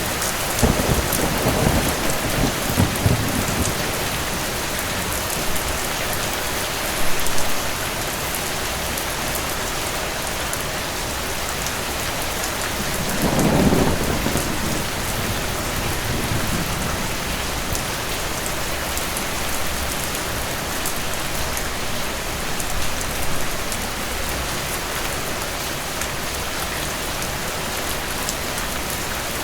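Steady rain with two rolls of distant thunder: one rumbling in right at the start, the other about halfway through and fading over a few seconds.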